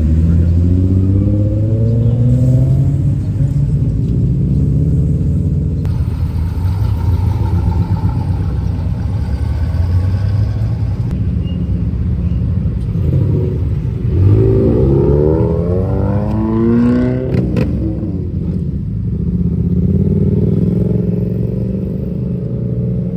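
Car engines running and revving over a steady low drone, with the engine pitch climbing in rises near the start and again about two-thirds of the way through.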